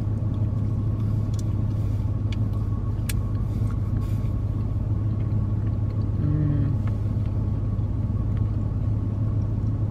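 Steady low hum of a car idling, heard inside the cabin. Faint clicks of mouths chewing soft, creamy food come and go over it, with a short low "mm" about six seconds in.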